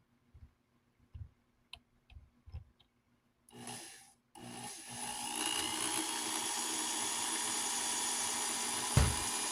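A few light clicks, then a small electric motor switches on. It spins up over about a second with a briefly rising whine and then runs steadily for about four seconds.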